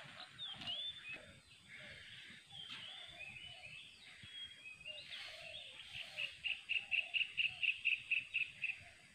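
Wild birds chirping and whistling; about six seconds in, one bird gives a fast run of about a dozen evenly spaced notes, around five a second, the loudest sound.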